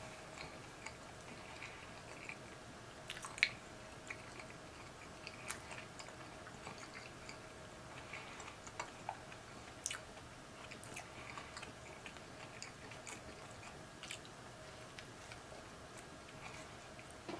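A person chewing soft sub sandwich bread close to the microphone, with scattered small wet mouth clicks and smacks; the sharpest come about three and a half and ten seconds in. A faint steady hum lies underneath.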